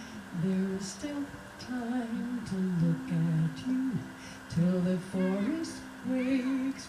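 Voices humming a slow melody in long held notes over a steady sustained drone.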